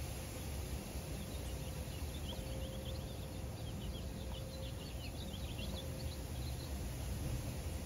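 Outdoor background of a steady low rumble with a faint hum, and a small bird twittering in quick short chirps from about a second in until near the end.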